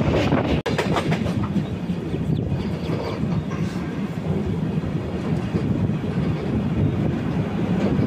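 Passenger express train running on the rails, a steady low rumble of wheels on track with a few rail clicks. The sound cuts out for an instant under a second in.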